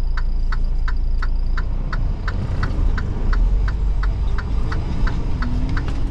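Turn signal clicking steadily, about three clicks a second, over the low rumble of a semi truck's diesel engine.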